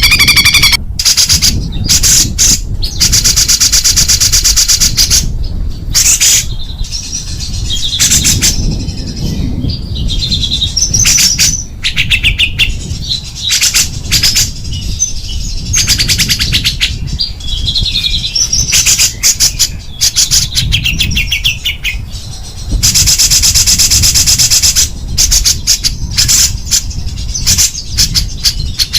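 Small songbird singing fast, harsh chattering bursts and rattling trills, with short warbled phrases between them and long unbroken buzzing rattles about three seconds in and again near twenty-three seconds. This is 'tembakan' song, the rapid harsh bursts played as a masteran to tutor competition songbirds.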